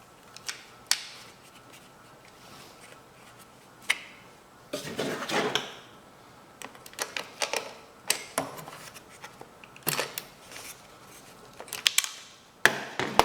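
Irregular clicks, knocks and clanks of hand tools and small-engine parts being handled, with a longer scraping rattle about five seconds in.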